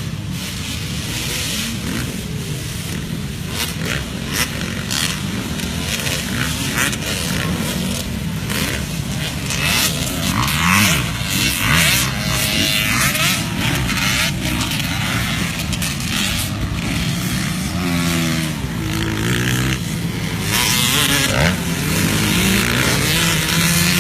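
Vintage motocross bikes racing on the track, their engines revving up and down in turn as they power around the course, with gusts of wind buffeting the microphone.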